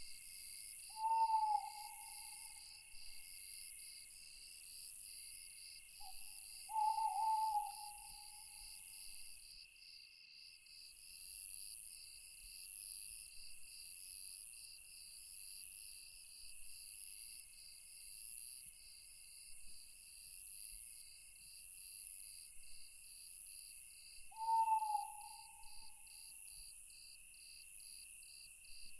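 Night insect chorus with crickets chirping in a fast, steady pulse. Over it an owl hoots three times: about a second in, about seven seconds in, and near the end, each call short and dropping slightly in pitch.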